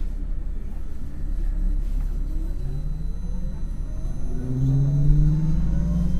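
MAN NL253 Hybrid city bus drivetrain pulling away: a steady low rumble, with whining tones that climb in pitch from about two and a half seconds in as the bus gathers speed.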